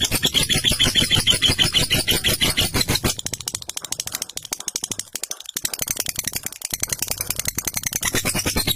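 Lovebird's long 'ngekek': a continuous, very fast rattling chatter of rapid repeated notes, a little softer in the middle.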